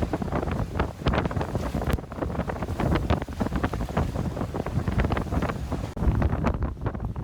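Strong hurricane wind gusting and buffeting the microphone in uneven rumbling surges, with a brief break about six seconds in.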